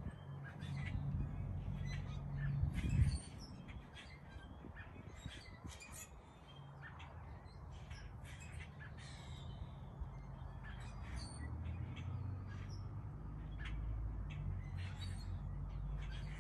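Wild birds calling, with many short high chirps and calls scattered throughout, over a low steady hum. A brief low thump about three seconds in is the loudest moment.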